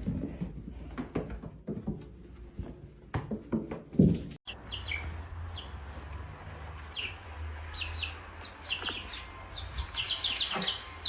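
Scattered knocks and handling noise, then a small bird chirping in many short, high, falling notes that come faster near the end.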